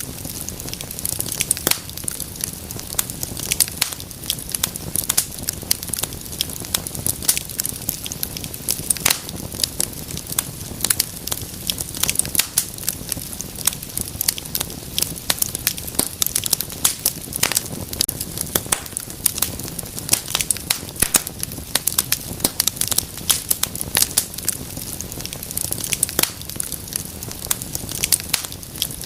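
Wood fire crackling steadily: dense, irregular sharp pops and snaps over a low, even rumble of burning.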